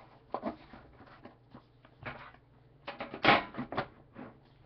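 Trading cards and their packaging handled on a table: a run of short rustles, slides and light taps, loudest about three seconds in.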